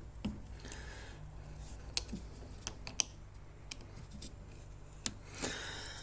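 Scattered light clicks and taps from small hand-tool work on a lawnmower's axle, about five sharp ones a second or so apart, while a stuck key is worked out of its groove. A soft hiss comes shortly before the end.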